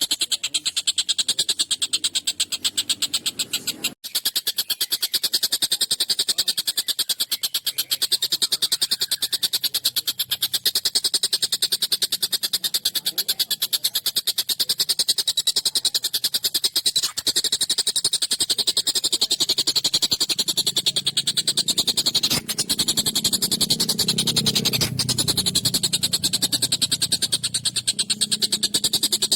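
Tengkek buto kingfisher giving a harsh, very fast rattling call, high-pitched and sustained, breaking off briefly about four seconds in.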